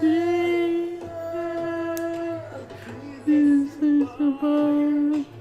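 Young woman's voice singing a wordless vocalise: one long held note for about two and a half seconds, then a string of shorter notes that step and slide, over a quiet sustained low accompaniment.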